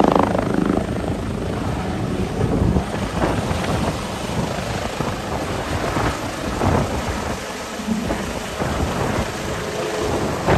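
Helicopter running close by, a loud rumble and whooshing noise with its rotor wash buffeting the microphone.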